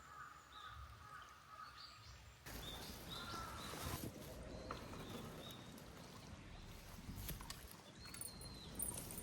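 Small birds calling with short, high chirps over faint outdoor background noise, with a few light clicks or knocks in the later part.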